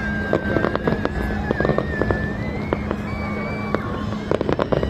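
Fireworks crackling and popping in quick clusters, the densest near the end, under a long, high, steady whistle.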